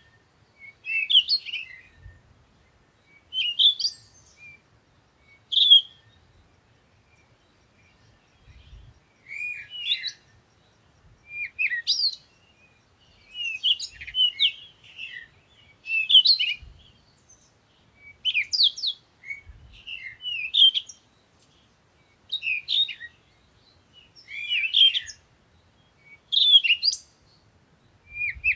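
Birdsong: short, fast chirping phrases repeated about every two seconds, with brief pauses between them.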